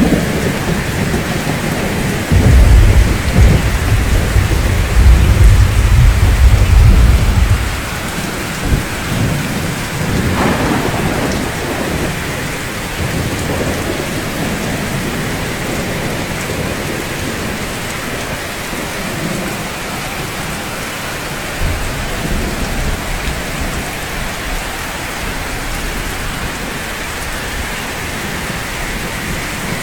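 Steady rainfall with a loud, deep roll of thunder starting a couple of seconds in and fading after about five seconds, then a fainter rumble of thunder later on.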